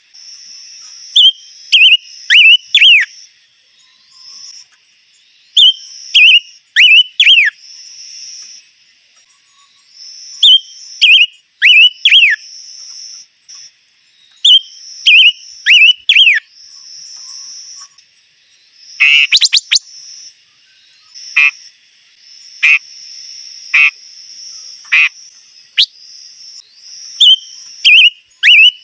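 A songbird, the 'chim ngũ sắc' (five-coloured bird), singing loud phrases of three or four quick whistled notes that slur downward, repeated every two to three seconds, with single downslurred notes around the middle. A steady high insect-like buzz runs between the phrases.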